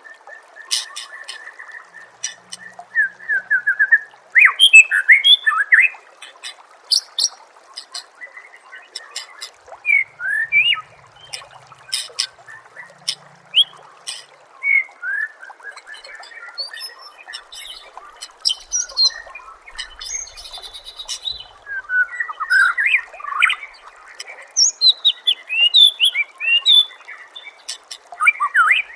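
White-rumped shama (murai batu) singing a varied run of quick whistles, trills and sharp clicking notes, over a faint steady trickle of water.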